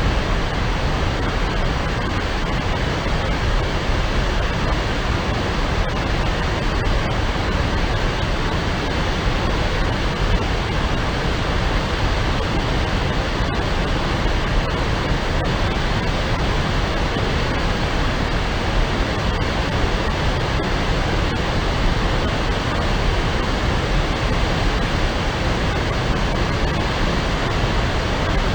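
A waterfall plunging about 30 metres into a pool, a steady, unbroken rush of falling water.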